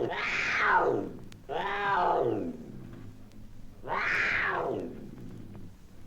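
Cougar giving drawn-out cat-like cries, each rising then falling in pitch, three in a row about two seconds apart, played from a 1960s sound-effects LP with faint surface clicks between the cries.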